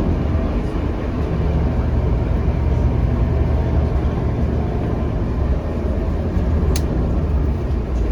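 Scania K310UB city bus on the move, heard from on board: its five-cylinder diesel engine and road noise make a steady low drone. A single sharp click comes about seven seconds in.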